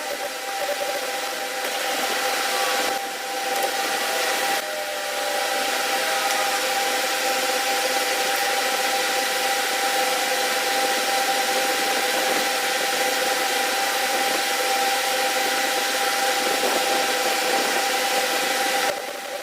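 A machine running steadily, with a constant hum of two tones over a rubbing hiss. It eases briefly about three and four and a half seconds in, and drops off near the end.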